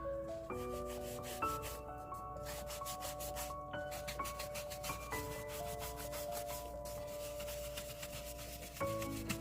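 Soft background music with held, stepping notes, over rapid, repeated scratchy rubbing strokes from craft work on paper.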